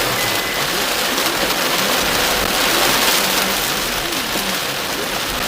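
Heavy rain falling on a car's roof and windscreen, heard from inside the car as a steady, dense hiss that swells slightly midway.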